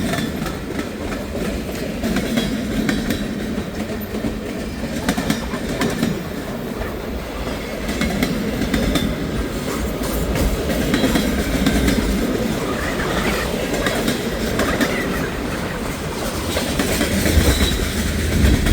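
Long freight train rolling past at speed, its car wheels clicking and clattering over the rail joints in a continuous run of clicks. Gusty wind buffets the microphone with a low rumble that rises near the end.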